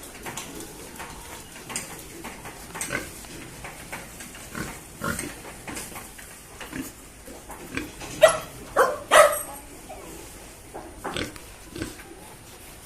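Domestic pigs grunting in short calls throughout, with a run of three louder squeals about eight to nine and a half seconds in.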